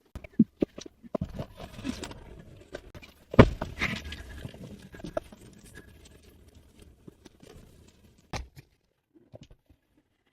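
Scattered knocks, clicks and rustling from objects being handled, with a louder thump about three and a half seconds in and another near the end.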